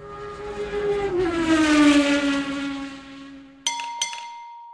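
A high-revving car engine sweeps past at speed, rising to a peak and falling in pitch as it goes by, then fades. Near the end, two sharp metallic clicks land about a third of a second apart, leaving a single ringing ding.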